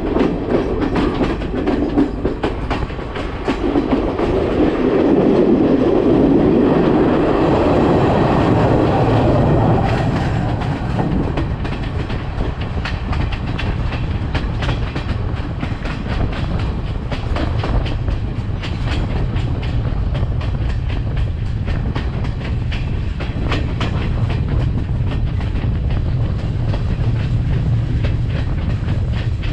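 Sri Lanka Railways class S12 diesel multiple unit running along the line, heard from a carriage window: steady clickety-clack of wheels over rail joints over a continuous running noise. For the first ten seconds or so there is a louder rush while the train passes close to a bank of dense vegetation, then it settles into a steadier low drone.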